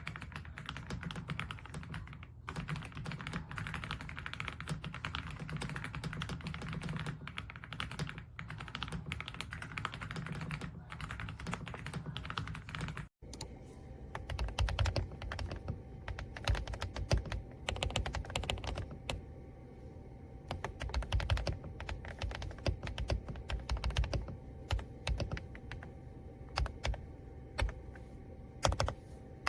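Fast typing on an AULA F99 mechanical keyboard with pre-lubed linear switches: a dense run of keystrokes. The sound drops out briefly about halfway through, and the keystrokes after that are deeper and more thuddy.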